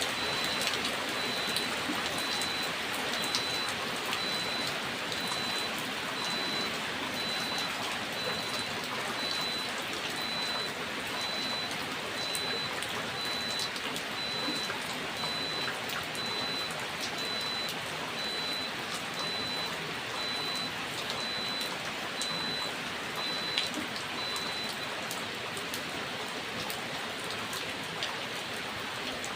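Steady rain falling, with scattered drops tapping sharply on a surface.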